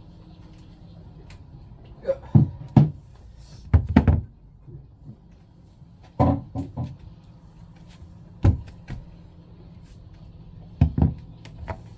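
Short knocks and clunks of plastic pump parts being handled and fitted together by hand, in small clusters: a few about two to four seconds in, more around six and eight seconds, and a pair near the end.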